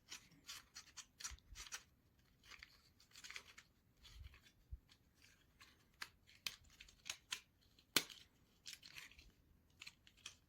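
Faint light clicks and scrapes of thin basswood model-kit parts being handled and pressed together by hand, with one sharper click about eight seconds in.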